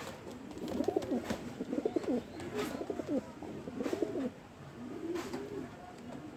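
Racing pigeons cooing: three spells of low, warbling coos, with a few faint clicks in between.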